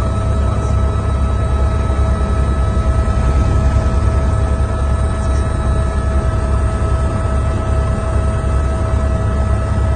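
Floodwater of a glacial lake outburst flood rushing in a torrent: a steady, loud, low noise with no breaks, with a faint steady tone running through it.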